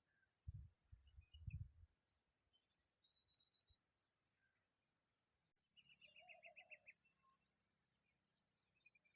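Faint bird calls from common babblers: short, rapid series of chirps, one about three seconds in and a longer chattering run about six seconds in. A steady high hiss runs underneath, and a few low thumps come in the first two seconds.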